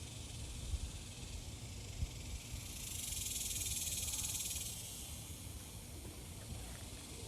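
Insects buzzing in a steady high-pitched chorus, with one louder buzz swelling up and fading away in the middle. Two dull thumps come in the first two seconds, likely from the garden fork working the soil.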